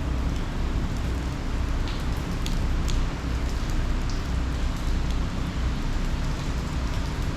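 Heavy hurricane rain falling steadily, with a fluctuating low rumble of wind on the microphone and a few sharp ticks of drops striking hard surfaces.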